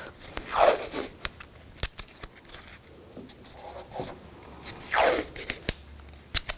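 Masking tape being pulled off the roll in two drawn-out rasps, about half a second in and again about five seconds in, with a few small clicks between.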